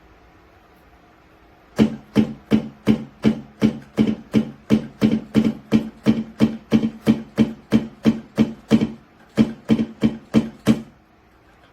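A musical instrument sounding one low pitched note over and over, about three sharp strikes a second, each dying away quickly, with a short break near the end.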